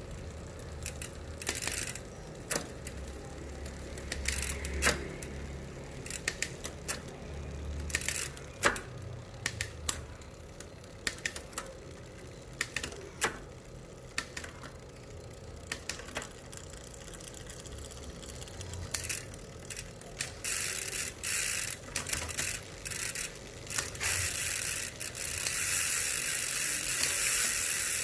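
Strummer freehub on a Thrill Fervent Elite T140 bicycle's rear wheel ratcheting: short bursts of pawl clicking, then from about twenty seconds in a continuous, louder buzz as the wheel freewheels faster, the wasp-like hub sound.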